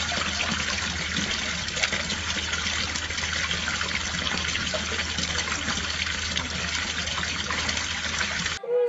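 Steady running water, like a tap running or pouring, over a low steady hum; it cuts off abruptly near the end.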